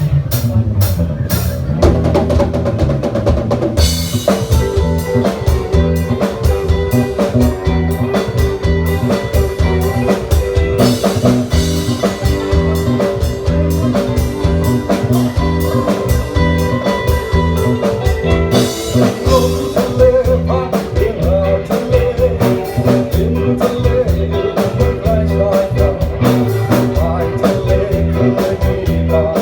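Band music with a steady drum-kit beat, the fuller arrangement coming in about four seconds in.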